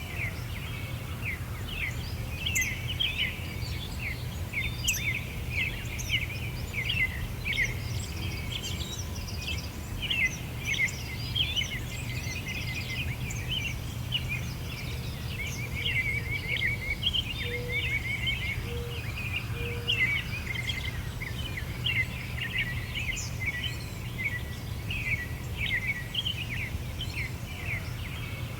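A dense chorus of songbirds chirping and singing continuously in rapid short notes, over a steady low rumble. About two-thirds of the way through, three short, faint low notes sound beneath the chirping.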